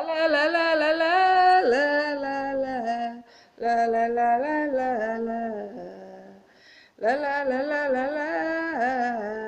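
Wordless singing: a voice vocalising a melody in three long phrases with vibrato, each separated by a brief pause.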